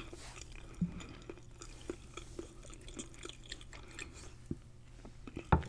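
Quiet chewing with scattered small mouth clicks, picked up close on the microphone, and a sharper click near the end.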